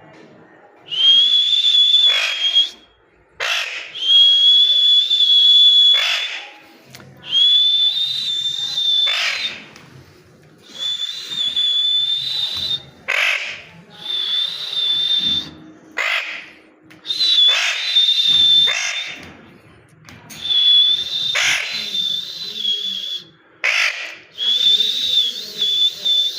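Parrot calling repeatedly: about eight long, high, steady whistles, each a second or two, separated by short harsh squawks.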